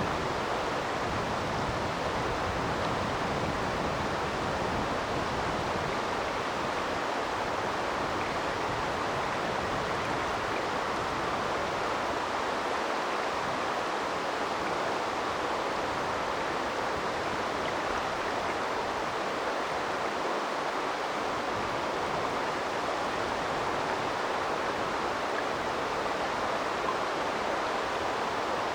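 A river's flowing water rushing steadily, as an even, unbroken babble.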